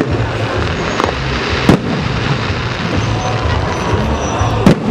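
Fireworks salute: aerial shells bursting in the sky with four sharp bangs, spaced unevenly, over a steady noisy background.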